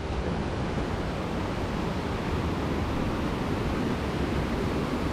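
Steady rushing of a river or stream, an even unbroken wash of water noise.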